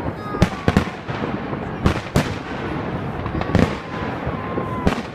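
Fireworks display: aerial shells bursting in a string of sharp bangs, about six loud reports over a constant crackle, with faint falling whistles between them.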